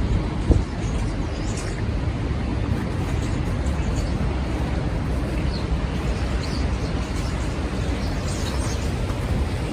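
City street ambience: a steady low rumble of traffic and wind noise, with a single short knock about half a second in.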